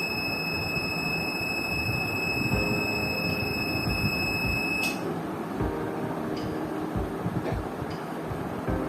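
A steady high-pitched electronic tone, like a smoke-alarm beep held long, that cuts off suddenly about five seconds in and starts again at the very end, over a constant background hiss.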